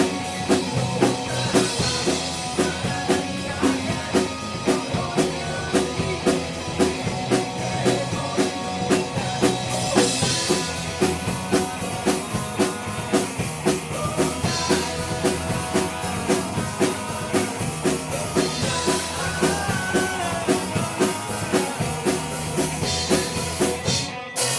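Live rock band with drum kit, electric guitar and bass playing an instrumental passage over a steady, even beat. Near the end the band stops suddenly, then comes one final loud accented hit that rings out, like a song's closing stroke.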